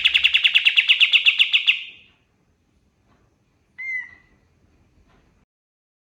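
Kapas tembak songbird singing a fast, loud trill of rapid repeated notes that ends about two seconds in, followed near four seconds in by a single short whistled note.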